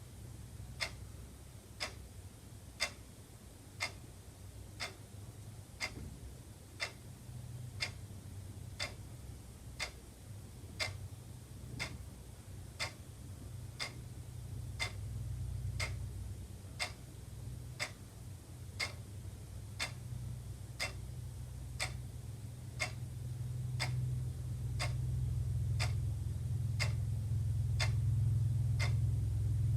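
Wall clock ticking steadily, one tick a second, over a low hum that grows louder toward the end.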